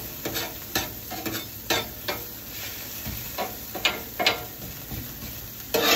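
Bacon, sausage and diced potatoes sizzling on a 17-inch Blackstone propane griddle, with a metal spatula scraping and tapping on the steel cooktop about ten times as the food is turned.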